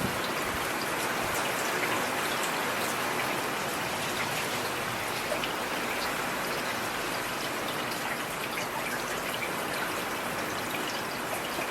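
Steady rain falling on a street: a dense, even hiss with scattered sharper drop ticks.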